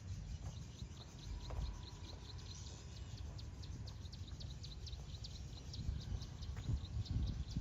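A bird calling in a fast, even series of short high chirps, about four a second, over a steady low outdoor rumble.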